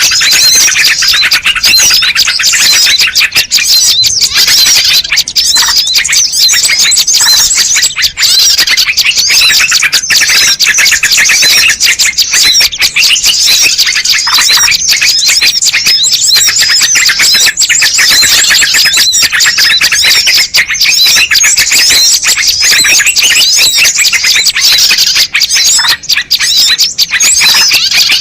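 Dense, unbroken chorus of many small birds chirping and twittering at once, many quick rising and falling notes overlapping: a bird-lure (pikat) recording meant to draw wild birds in.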